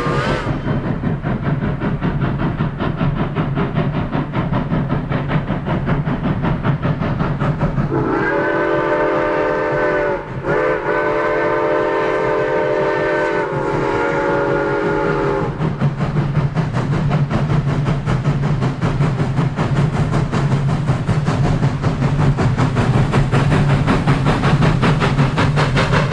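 Southern Railway No. 4501 Mikado steam locomotive running with its train, a steady low rumble and fast rhythmic clatter throughout. About eight seconds in, its multi-note chime steam whistle blows for about seven seconds in three blasts.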